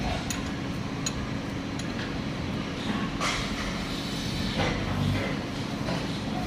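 Scattered sharp metallic clicks and a few louder knocks over a steady low hum, as when tools and engine parts are handled during a teardown.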